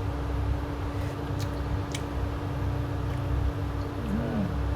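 Steady low rumble with a constant hum underneath, and two light clicks about a second and a half and two seconds in.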